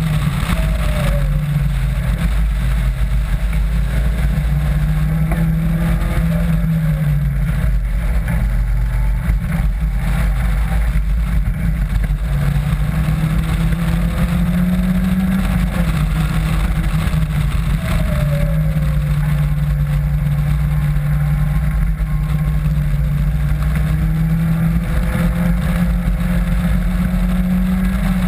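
A Caterham Seven's engine pulling hard around a circuit lap, heard from the open cockpit. Its pitch climbs slowly and then drops back several times as the car accelerates and slows.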